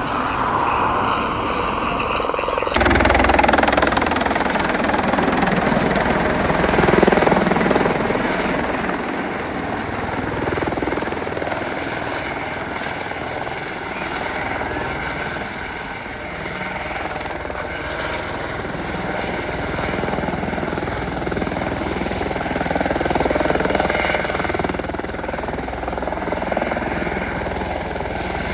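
Eurocopter EC120 helicopter running as it arrives: steady rotor and turbine noise that grows louder about three seconds in and swells and fades as it moves.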